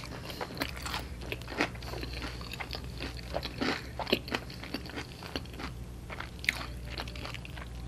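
Close-miked chewing of a mouthful of thick-breaded fried onion ring, with irregular crisp crunches of the breading.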